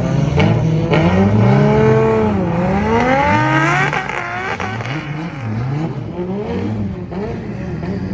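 Drift car engine revving hard, its pitch climbing steadily for about four seconds and then dropping, followed by a string of quicker rises and falls as the throttle is worked on and off.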